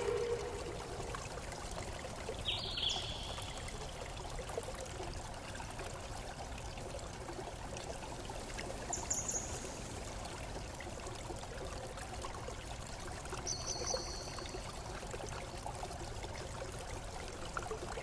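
Steady running water, like a stream or small waterfall. A few short high chirps come about three, nine and fourteen seconds in, and a ringing tone dies away in the first second.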